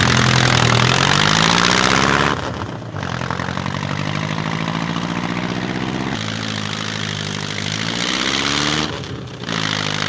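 The 6.2-litre four-cylinder engine of a 1924 Delahaye 107 running and being revved. It is loudest for the first two seconds, drops briefly, then settles into steadier, lower running before its pitch climbs again near the end.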